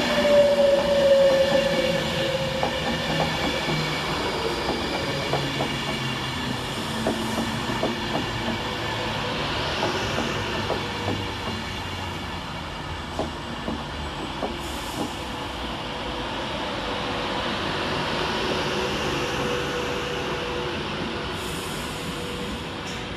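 Class 390 Pendolino electric train running into the station and slowing. A falling whine at the start, then wheels clicking over rail joints, dying away to a steady hum as it draws to a stand.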